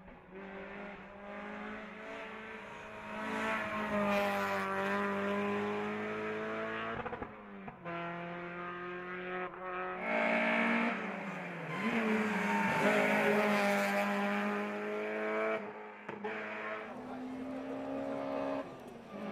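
Race car engine at full throttle on a hill climb. Its note rises and then drops several times as it shifts gear and brakes for corners, growing louder as the car approaches.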